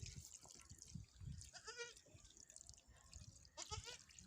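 A goat bleating faintly: a short quavering bleat about two seconds in and a weaker call near the end, over low muffled bumps.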